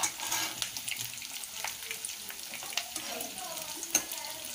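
Onion, garlic cloves and ginger frying in hot oil in a kadai with a steady sizzle, while a steel spatula stirs them and clicks and scrapes against the pan. They are being sautéed to a light golden brown.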